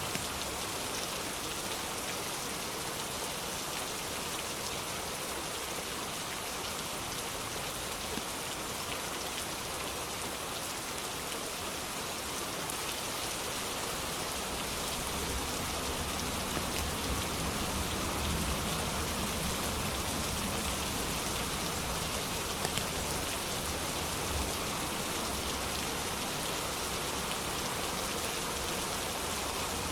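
Steady, dense rainfall hissing evenly throughout. About halfway through, a low rumble of distant thunder swells in and rolls on to the end.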